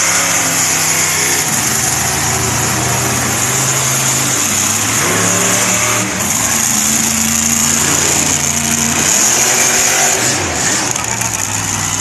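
Monster truck engines running hard during a race, several at once, their pitch climbing and dropping as they rev and shift.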